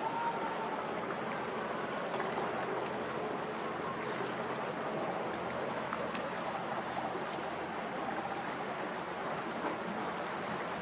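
Steady rushing noise of harbour water, with a few faint clicks.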